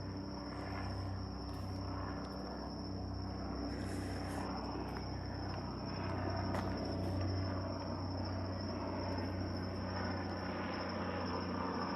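Police helicopter flying overhead: a steady low drone that grows a little louder about halfway through. A constant high-pitched insect trill runs under it.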